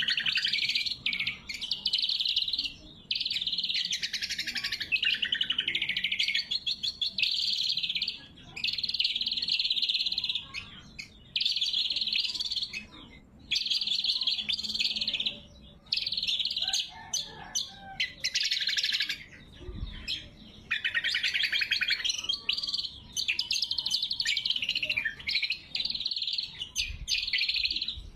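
Greater green leafbird (cucak kombo) singing: a run of rapid, high-pitched phrases, each a second or two long, with short pauses between them.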